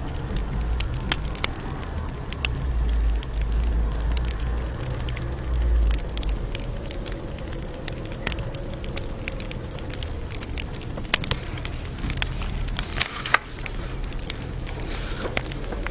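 Campfire crackling, with frequent sharp pops, the sharpest about thirteen seconds in. Under it there is a low rumble that is stronger over the first six seconds.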